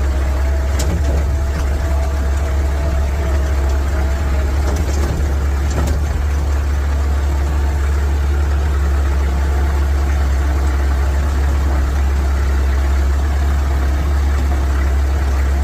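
Massey Ferguson 65 tractor engine running steadily on the road, a constant deep rumble, with a faint whine that fades out about four seconds in.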